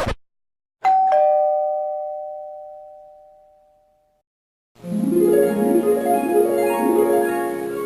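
Two-note doorbell chime, a higher note then a lower one ("ding-dong"), ringing out and fading over about three seconds. Near the end a light plucked, piano-like tune begins.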